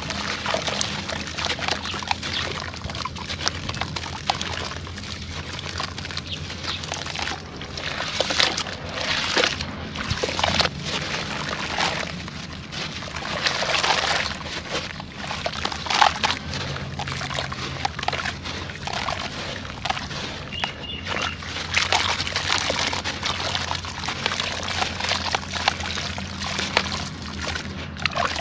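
Sand and cement lumps crumbling, with loose grains pouring and trickling in a continuous crackle of small crunches and clicks.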